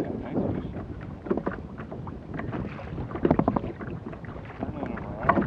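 Wind buffeting the microphone over water sloshing against a kayak's hull, with a few short knocks or splashes, the loudest about three seconds in and again near the end.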